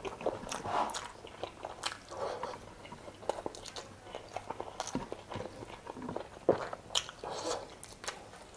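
A mouthful of chicken adobo in coconut milk with rice being chewed: irregular mouth clicks and smacks.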